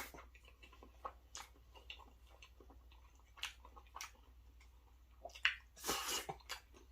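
Close-miked chewing of a mouthful of creamy Alfredo pasta, with faint wet mouth clicks and smacks scattered throughout. A louder, noisier mouth sound comes about six seconds in.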